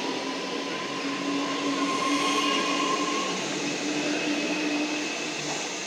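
Metro Melbourne electric suburban train pulling away, its wheel and running noise carrying a steady electric whine that fades out a few seconds in as the train draws off.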